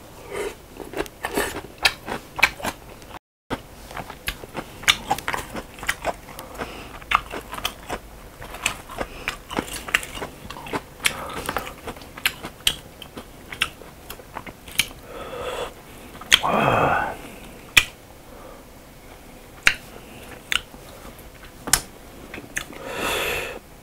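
Close-miked eating sounds of a person chewing and smacking noodles and pork, with many short sharp mouth clicks. A louder, longer noisy sound comes about 16 seconds in.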